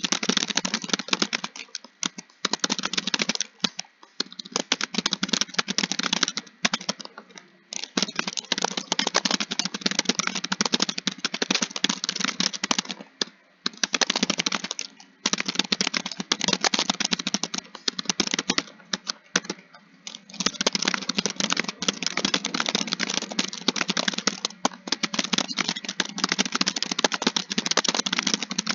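Fast typing on a computer keyboard: a dense run of keystroke clicks, broken by short pauses every few seconds.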